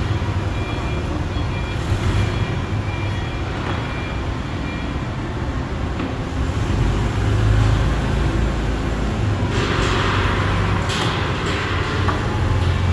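A large engine running steadily with a low rumble, with a short burst of hissing about ten seconds in.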